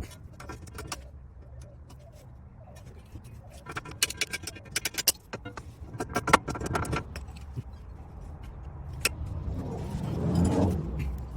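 Metal clinking and rattling of hand tools and car parts being handled, with a quick run of sharp clicks about four to seven seconds in. A low scraping rumble rises near the end.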